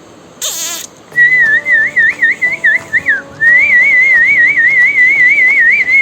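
A brief harsh burst, then from about a second in a loud, high warbling whistle that wavers rapidly up and down in pitch. It breaks off briefly near the middle and resumes, with faint steady tones underneath.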